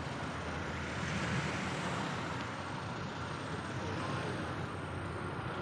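Steady road noise of a moving vehicle: an even rumble with hiss, no distinct events.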